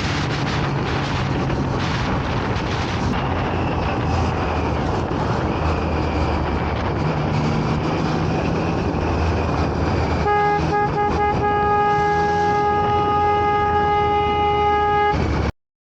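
Steady road and wind noise from a moving vehicle, with a low engine hum. About ten seconds in, a vehicle horn sounds one long, unbroken blast for about five seconds, then the sound cuts off abruptly.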